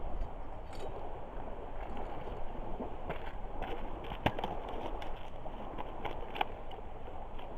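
Driftwood campfire crackling, with a handful of sharp pops in the second half, the loudest two at about four and six seconds in, over a steady low rush.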